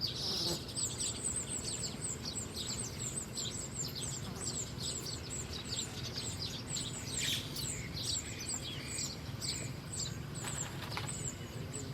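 A flock of small birds chirping continuously, with rapid high-pitched twittering notes several times a second and scattered downward-slurred calls mixed in, over a steady low background hum.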